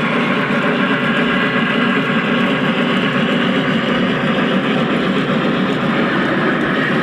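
Lionel O-gauge model steam locomotives, a Reading T1 and a Union Pacific Big Boy, running side by side with passenger trains: a steady rumble of wheels on the rails and the locomotives' motors.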